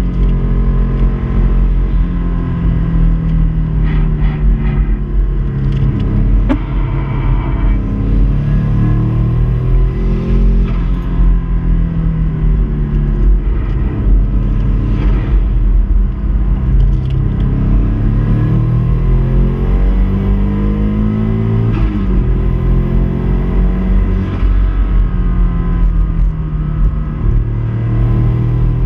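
Subaru Impreza's flat-four engine being driven hard. The revs climb, drop back at each gear change and climb again, over and over.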